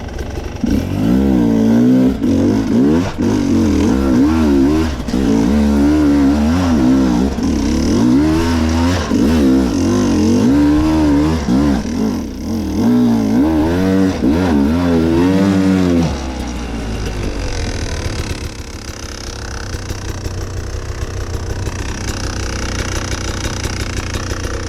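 Enduro dirt bike engine worked hard in quick, repeated throttle bursts, its pitch rising and falling constantly. About sixteen seconds in, it drops to a quieter, steadier, lower running.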